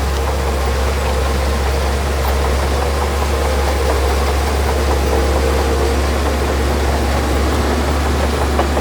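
Heavy earthmoving machine's diesel engine running steadily, a deep even rumble under a broad noise.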